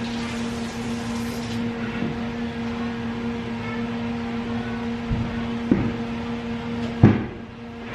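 A steady low electrical or mechanical hum with one main tone, broken by three short knocks about five, six and seven seconds in, the last the loudest.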